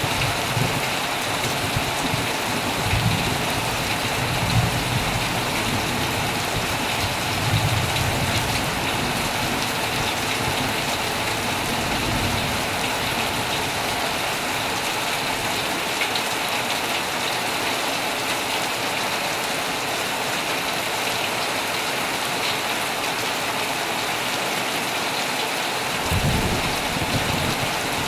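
Heavy rain falling steadily on a tent, with low rumbles of thunder through the first several seconds and again near the end.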